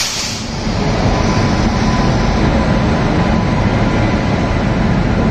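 Indian Railways express train rolling slowly past along a platform, the locomotive followed by the luggage van and coaches, with a steady loud rumble and a thin steady whine over it.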